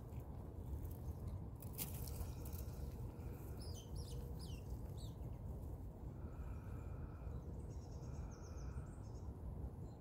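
Small birds chirping outdoors over a low rumble of wind on the microphone: a quick series of short falling chirps about four seconds in, and high twittering near the end, with one sharp click about two seconds in.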